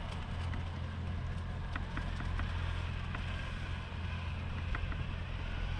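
Monster truck running with a steady low drone, with scattered sharp clicks and ticks over it.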